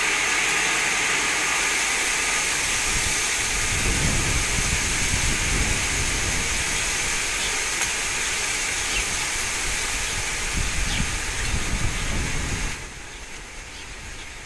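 Strong wind rushing and gusting over the microphone, an even hiss with rumbling low buffets, falling away suddenly near the end.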